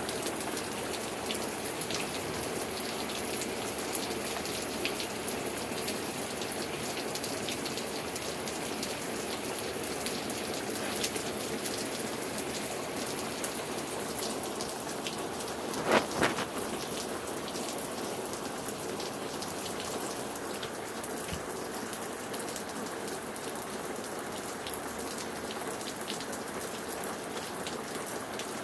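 Steady rain falling, with individual drops ticking on a surface throughout. A brief sharp double knock comes about halfway through.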